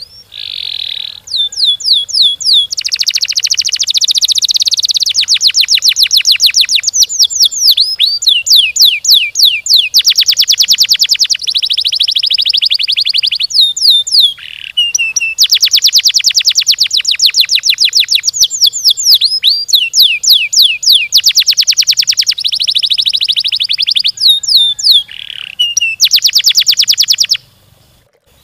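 Domestic canary singing a long, loud song of fast, tightly packed rolling trills and repeated down-sweeping whistled notes, with a brief pause about halfway.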